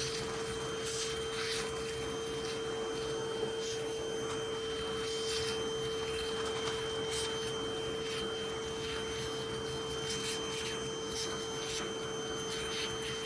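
A steady hum from the motor of a no-kill bee vacuum, holding one even pitch. Short scraping, rasping sounds come and go over it.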